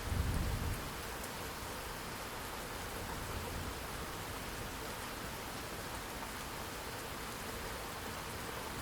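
Steady, even rainfall, with a brief low rumble of thunder in the first second.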